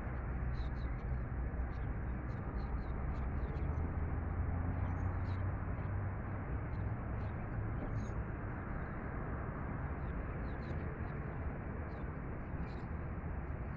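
Outdoor ambience: a steady low rumble and hiss with short, high bird chirps scattered throughout, about two a second.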